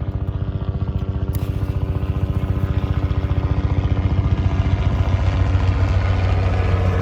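Helicopter flying low overhead, its rotor chop a fast steady pulsing that grows louder.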